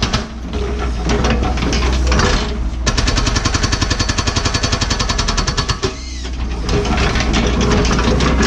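Hydraulic rock hammer on a Cat 314E excavator pounding hard blue basalt bedrock: runs of rapid, steady blows that break off briefly at the start and about six seconds in, with the excavator's diesel engine running underneath.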